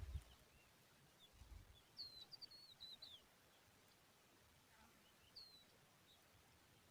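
Lark chicks chirping faintly: a quick run of short, high chirps about two seconds in and one more a few seconds later, with faint chirps between. Two low thumps, one at the start and one about a second and a half in.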